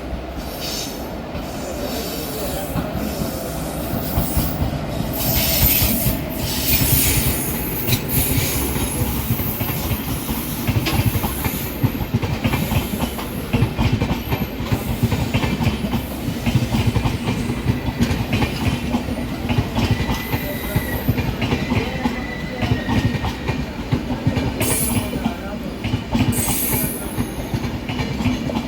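An express train running past at speed, its wheels clattering rapidly over the rail joints with a steady rumble. There are bursts of high wheel squeal and hiss twice, a few seconds in and again near the end.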